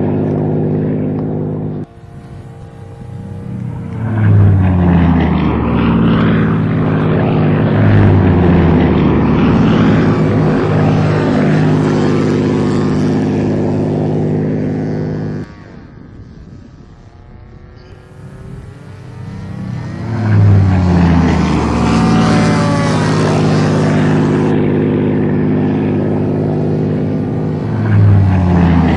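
Engines of radio-controlled model warplanes flying past in a steady run. The sound drops suddenly about two seconds in and again about halfway, each time building back up with a rising then falling pitch as a plane sweeps by.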